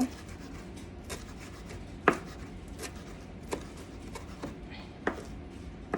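A knife chopping cilantro on a cutting board, in separate single strokes less than a second apart.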